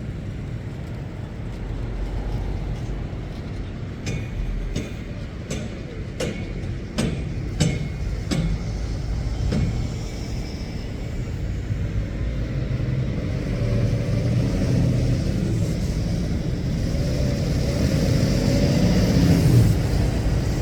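Lorries' diesel engines running past at close range, with a run of sharp knocks about four to ten seconds in. Near the end one engine grows louder, its pitch rising as it pulls away.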